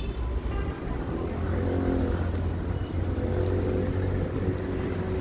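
City street traffic, with a motor vehicle's engine running close by, strongest from about halfway through.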